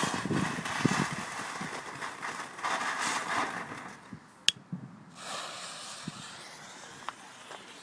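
Outdoor fireworks noise: a hissing crackle with scattered small pops, broken by a sharp click about halfway, after which the hiss is fainter.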